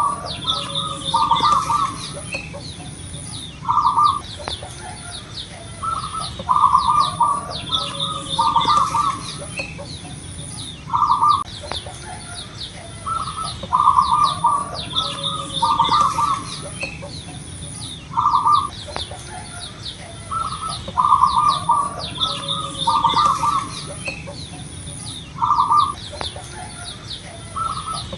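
Zebra dove (perkutut) cooing: short phrases of clipped notes repeated every two to three seconds. Other small birds chirp thinly behind it over a high pulsing trill.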